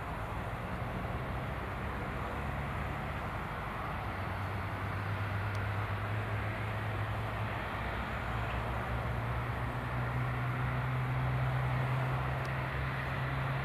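Steady noise of a Boeing 777-300ER jet airliner with a low drone underneath; the drone rises slightly in pitch about eight seconds in and the noise grows a little louder.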